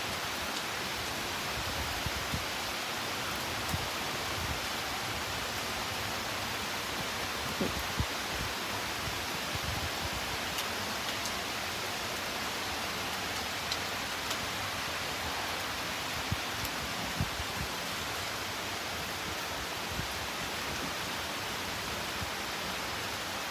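Steady rain falling, an even hiss with a few faint taps now and then.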